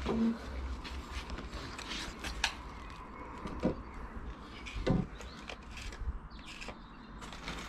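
Scattered light knocks and clicks of wooden pergola parts being handled and fitted together, with a few duller thuds.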